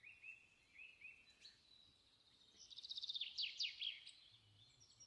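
Faint bird song: a few short high chirps, then a quick run of falling, trilled notes about two and a half seconds in.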